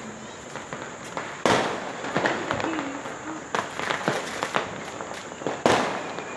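Fireworks going off all around: two loud bangs, one about a second and a half in and one near the end, each with a long fading tail, and smaller pops and crackles between them.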